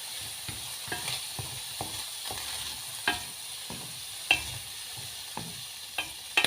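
Food sizzling in a frying pan while it is stirred, with a steady hiss and irregular sharp clicks and knocks of a utensil against the pan.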